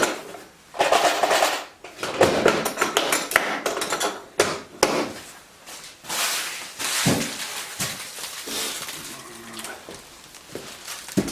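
A run of irregular knocks and metallic clanks, some in quick clusters, with stretches of rustling noise between them.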